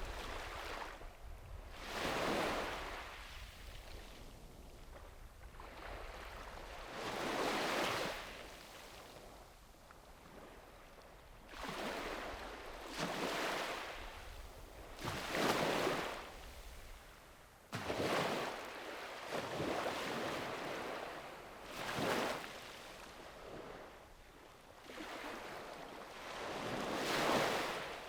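Small sea waves breaking and washing up a beach, one surge of surf every few seconds, each swelling and fading away.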